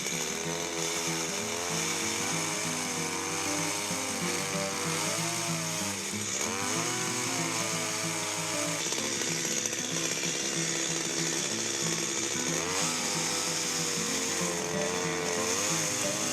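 Chainsaw running and cutting wood, its pitch rising and falling as the cut loads and eases, over background music.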